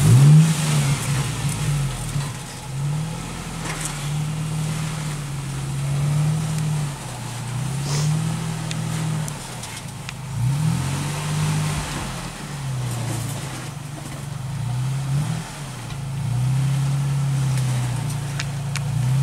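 Off-road vehicle's engine revved up and down over and over, its pitch rising and falling every couple of seconds as it works through a rocky trail obstacle, with a few sharp knocks along the way.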